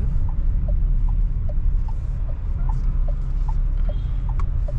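Steady low road and engine rumble inside a moving car's cabin, with the indicator ticking: short clicks alternating between a higher and a lower pitch, about two or three a second.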